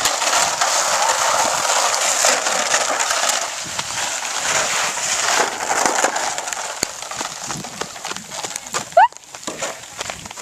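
A sled scraping and sliding over an ice-glazed driveway, a steady gritty hiss with many small clicks that fades after about six seconds. A short rising squeal comes about nine seconds in.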